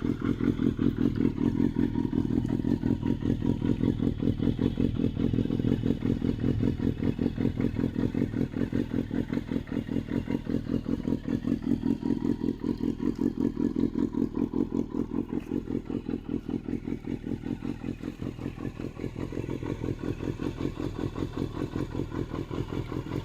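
Motorcycle engine running at a steady idle through an RPM titanium aftermarket muffler, its exhaust giving a deep, even pulsing beat with no revving.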